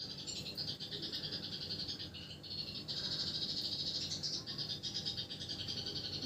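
Domestic canary singing a long, fast, high-pitched trilling roll, with a short break about two and a half seconds in.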